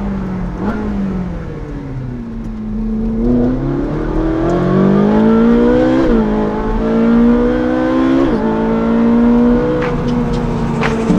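Ferrari 458 Speciale's naturally aspirated V8 through a Novitec sport exhaust, accelerating hard: the revs climb and fall back sharply at two upshifts, about six and eight seconds in, then hold steady.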